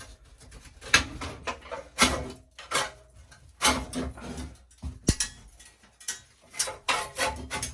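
Irregular clicks and knocks of metal parts being handled and worked loose in a gas water heater's burner assembly, some strikes with a short ringing after them.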